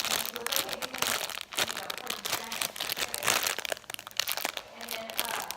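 Plastic crinkling and rustling in irregular bursts as a hot dog squishy toy is handled and squeezed.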